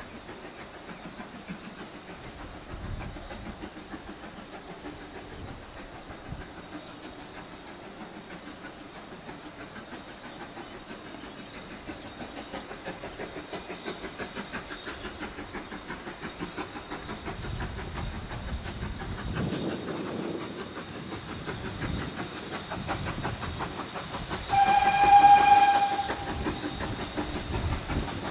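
A train running with a steady rhythmic beat, growing louder over the last part. Near the end a locomotive whistle sounds one steady note for about a second and a half.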